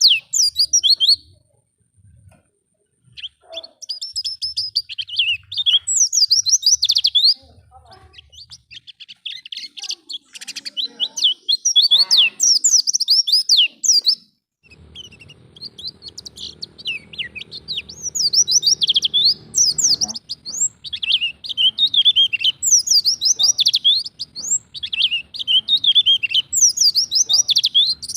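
Pleci (white-eye) singing in fast, high twittering phrases of rapid chirps, broken by short pauses: a lure song played to get young pleci to sing in the 'ngalas' style.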